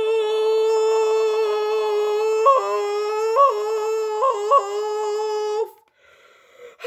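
A voice holding one long steady note for several seconds, a drawn-out "blaaast" of a mock "blast off" rocket launch, with four short upward yelps in pitch before it stops about a second before the end.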